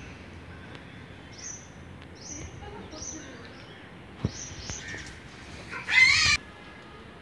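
Small birds chirping: short, high, falling chirps repeat every second or so, with one louder, longer, wavering call about six seconds in.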